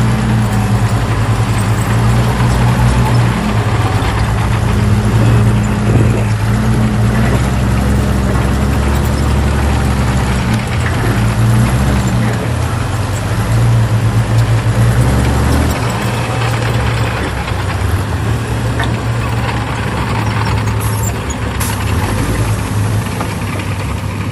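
Diesel engine of heavy earthmoving machinery running continuously with a deep drone, its engine note shifting a few times as the load changes, over a broad rumble of the working machine.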